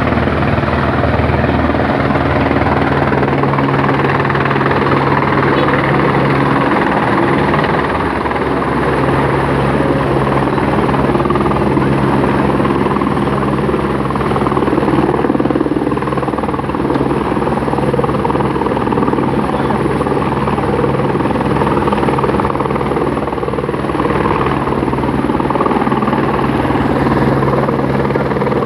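Firefighting helicopter's rotor running loud and steady, the blades beating rapidly and evenly.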